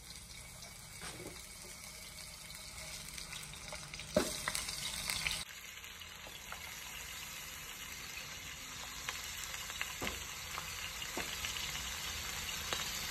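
Beef seekh kebabs sizzling in hot shallow oil in a non-stick frying pan as they are laid in one after another, a steady hiss with small pops and crackles that grows louder as more go in.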